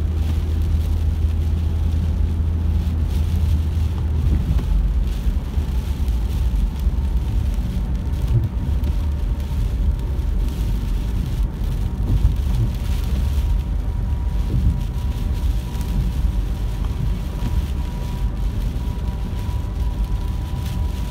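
A car driving on a rain-soaked road, heard from inside the cabin: a steady low rumble of road and engine, with the hiss of rain and tyre spray.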